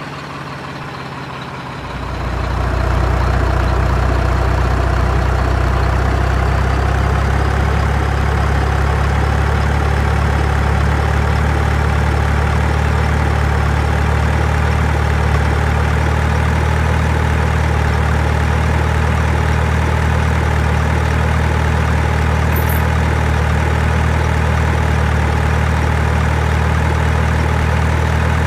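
Truck engine idling steadily, swelling louder about two seconds in and then holding an even low hum.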